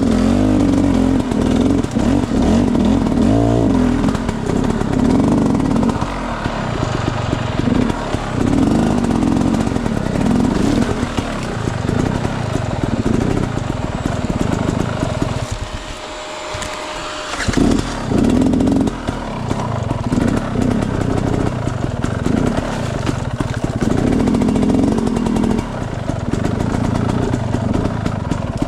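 Enduro dirt bike engine revving up and down under constantly changing throttle. It eases off into a brief lull a little past the middle, then picks up again.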